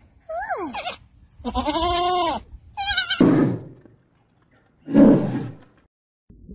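Young goat bleating three times, the middle call held about a second with a slight waver. Then two rough, breathy growls from a polar bear, the louder one about five seconds in.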